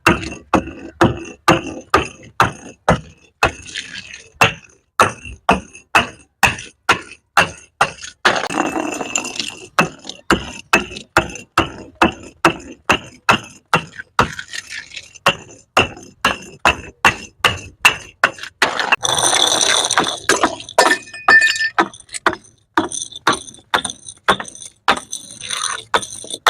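Glass bottles crashing and breaking in quick succession, about two to three sharp crashes a second, with two longer bursts of shattering about eight and nineteen seconds in.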